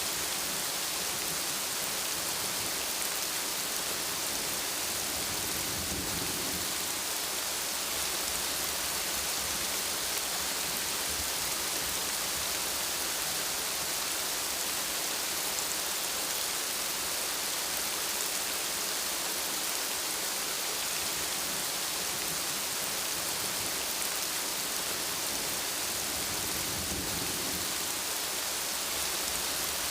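Steady rain, with low thunder rumbles about six seconds in and again near the end.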